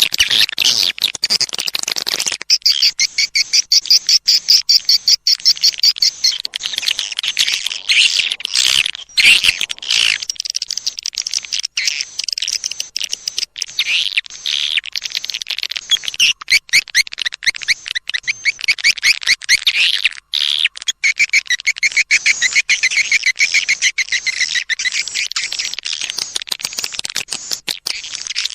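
Swiftlet lure call, a recording of swiftlet chirps played to attract swiftlets to a nest house. It is a dense, fast twittering of rapid chirps that keeps going without pause.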